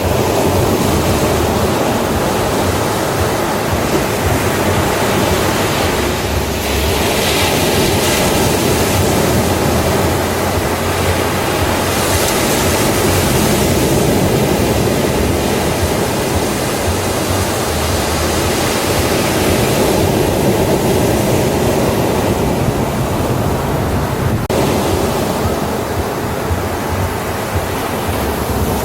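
Ocean surf on a beach: a continuous wash of waves, with the hiss swelling as waves break about seven and twelve seconds in.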